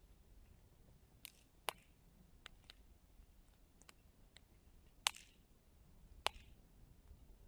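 Wood fire crackling: scattered small snaps and ticks from burning wood, with three louder pops about two, five and six seconds in, over a faint low rumble.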